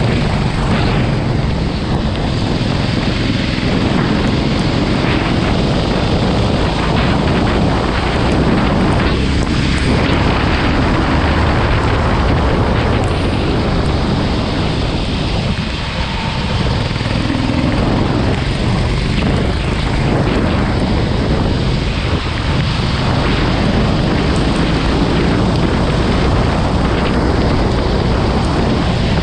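Go-kart engine running steadily at speed on track, mixed with heavy wind noise on the microphone.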